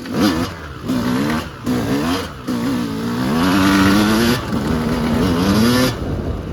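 Yamaha YZ250 two-stroke dirt bike engine revving under hard riding, its pitch climbing and dropping with repeated throttle pulls and short breaks. It rises steadily through one long pull in the middle, then is backed off near the end.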